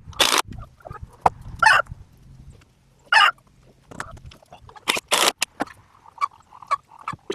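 Backyard chickens clucking and squawking, with a quick run of short repeated clucks near the end, among short sharp knocks and clicks.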